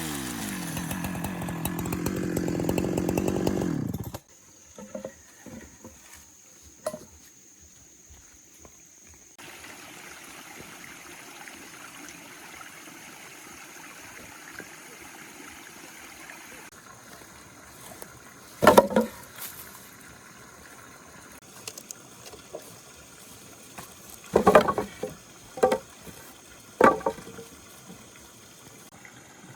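Chainsaw engine slowing from a cut and idling for about four seconds, then shut off. Later come a few sharp knocks, louder than anything else after the saw stops.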